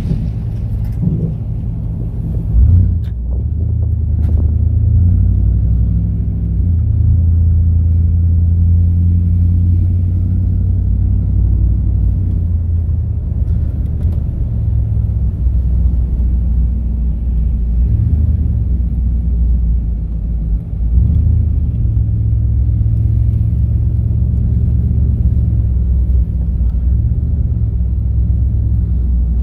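Chevrolet Camaro IROC-Z's 5.7-litre V8 with SLP headers and upgraded exhaust, a steady low rumble heard from inside the cabin while driving at low speed. The revs rise briefly about three seconds in, and the engine note shifts a couple of times later on.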